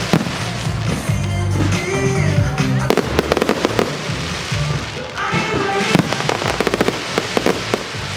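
Fireworks going off in a string of sharp bangs and crackles, some in quick clusters, over loud pop music with singing.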